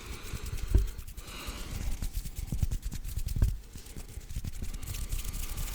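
Hands rubbing, tapping and clapping close to a microphone, with dense crackly friction clicks and a few low thuds, the strongest about one second and three and a half seconds in.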